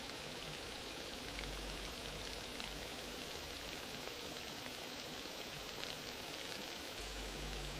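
Wood fire crackling: a steady hiss dotted with many small pops and snaps.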